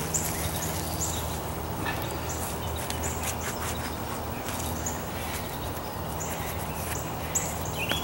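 Outdoor background of a steady low hum with short, high chirps repeating every second or so, and now and then a faint click or scrape from digging sweet potatoes out of soil.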